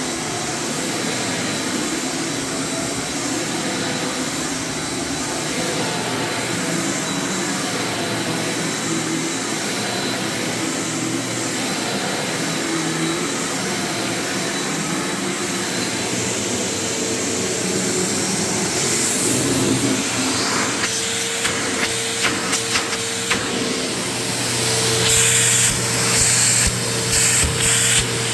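Panasonic MC-UG223 upright vacuum running steadily. In the last eight seconds or so a steady tone sets in, with a run of short knocks and surges in level.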